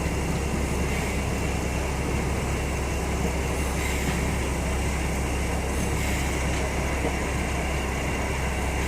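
MMTS suburban train on a trial run: a steady, even running noise with a strong low hum.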